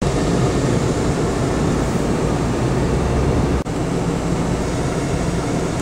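Blizzard wind blowing hard across the microphone: a loud, steady rumbling noise, broken by a brief dip about three and a half seconds in.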